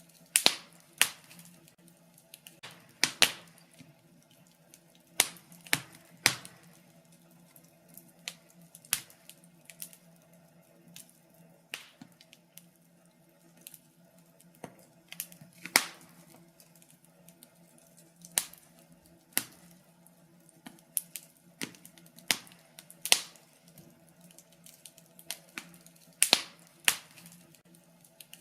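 Wood fire crackling in a fireplace: sharp, irregular pops and snaps, often a second or two apart and sometimes in quick pairs, over a faint steady low hum.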